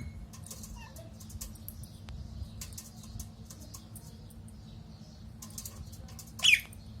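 A parrot gives one short squawk about six and a half seconds in, sliding down steeply in pitch. Faint scattered clicks and ticks run throughout over a low rumble.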